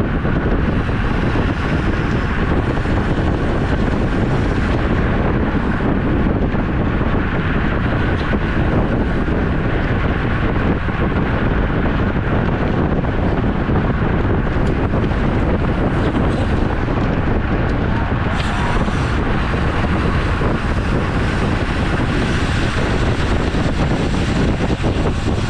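Wind rushing over the microphone of a camera riding on a road bike at speed: a loud, steady buffeting noise with no let-up.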